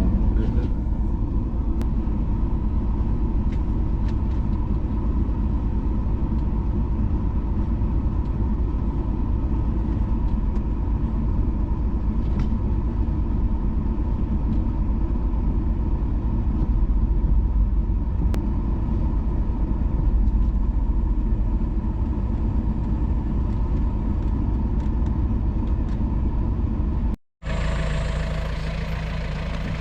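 Steady low rumble of a vehicle engine driving, with a faint steady whine above it. About 27 seconds in it cuts abruptly to a quieter engine idling.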